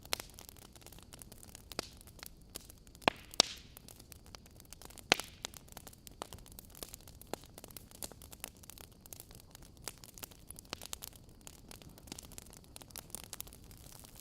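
Wood fire crackling: burning logs giving a low steady hiss, with frequent irregular sharp pops and snaps, the loudest a few seconds in and again about five seconds in.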